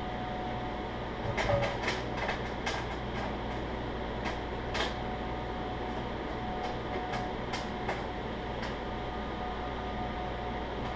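Microwave oven running with a steady hum while the kernels on a corn cob pop inside it. The pops come in a quick cluster in the first few seconds, then as scattered single pops.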